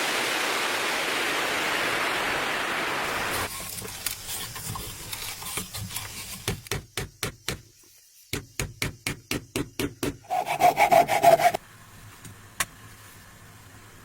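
A steady rushing noise, then a hand saw cutting wood in quick back-and-forth strokes, about five a second, with a brief pause about halfway through. The last strokes are the loudest and carry a ringing scrape before stopping suddenly.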